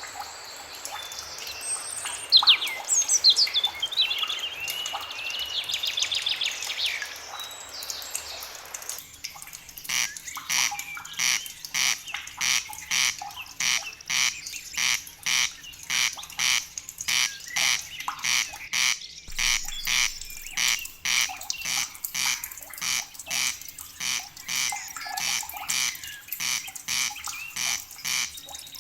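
Forest birds singing, with quick chirps and gliding whistles over a steady background hiss. About nine seconds in, the sound switches abruptly to a repeated animal call, a short call about one and a half times a second, with other birds faintly behind it.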